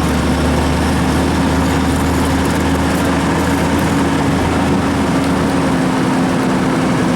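Amphicar's engine running steadily at a constant speed, with a steady droning hum.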